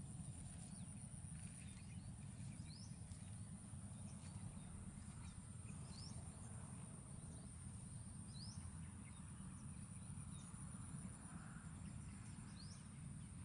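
Quiet outdoor ambience with a steady low rumble, over which a few faint, short, rising bird whistles sound every couple of seconds.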